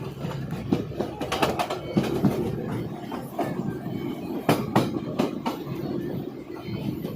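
Passenger train running on the rails: a steady rumble with irregular clacks and knocks from the wheels on the track.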